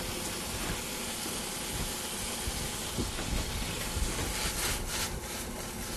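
Chopped onions and garlic sizzling in a stainless steel frying pan, a steady hiss.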